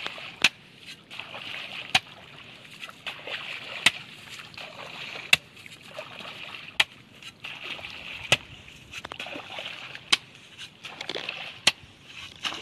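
Water splashing and sloshing in shallow water, with a sharp knock about every one and a half seconds.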